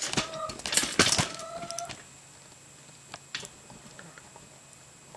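Wooden pieces knocked and shifted against each other on a workbench, with a quick run of clicks and short squeaks of wood rubbing in the first two seconds, then a few light taps.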